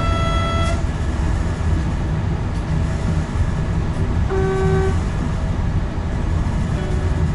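Alvia Renfe class 120 electric train running at speed, heard from the cab as a steady low rumble of wheels and traction. Two short signal tones sound over it: a higher one at the start and a lower one about four seconds later.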